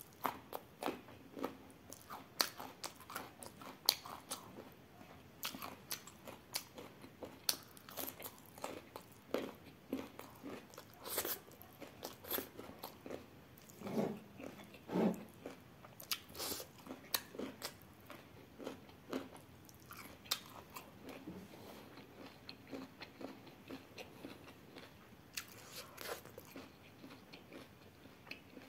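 Close-miked chewing with irregular crisp crunches of raw carrot slices, bite after bite, and small wet mouth sounds between them.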